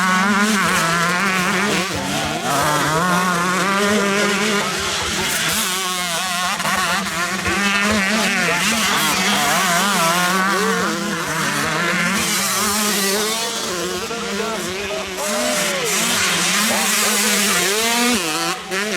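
Several 125cc motocross bike engines revving hard and shifting, their pitches rising and falling and overlapping as the bikes race round the track.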